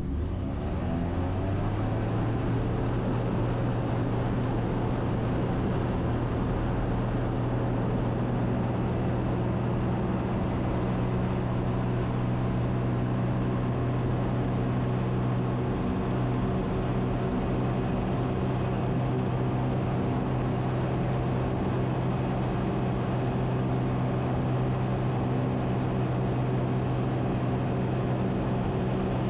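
Ikarus C42 light aircraft's engine and propeller at full takeoff power, a steady drone that rises briefly in pitch in the first second as the throttle comes up, then holds level through the climb.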